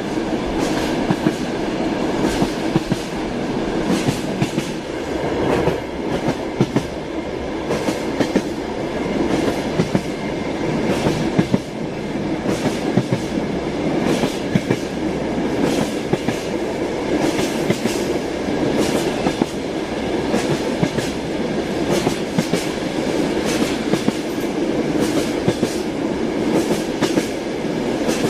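A train running on rails: a steady rumble with frequent clicks and knocks of the wheels going over rail joints, the clickety-clack.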